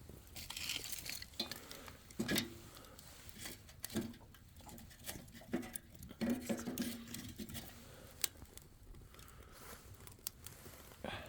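Light knocks, clinks and short rustles at irregular spacing, like cookware and small objects being handled.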